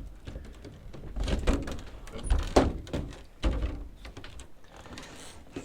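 A stiff, awkward door being worked open: a string of knocks and thuds, the sharpest about two and a half seconds in.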